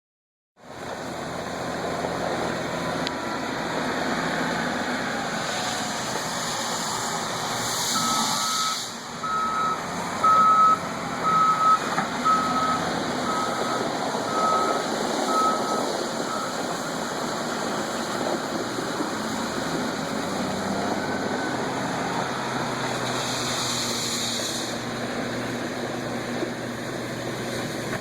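Rock crusher and the heavy equipment feeding it running steadily. A back-up alarm sounds about nine evenly spaced beeps, roughly one a second, from about a third of the way in.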